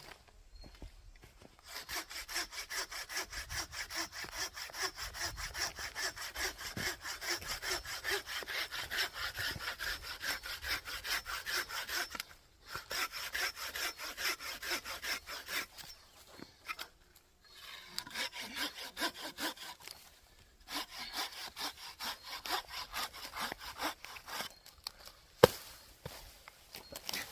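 Hand saw cutting through wood with quick back-and-forth strokes, stopping briefly a few times between runs of sawing.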